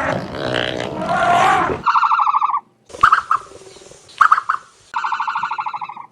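Animal calls: a rough, noisy call for the first couple of seconds, then a repeated high, rapidly pulsing call with short sharp chirps between, each starting and stopping abruptly.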